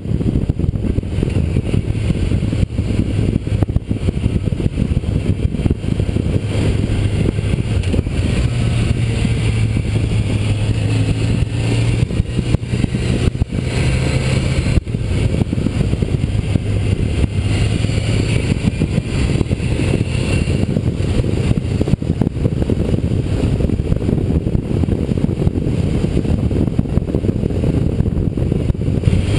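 Motorcycle engine running under way at road speed, its pitch shifting a little as it pulls, under a steady rush of wind noise on a bike-mounted camera's microphone.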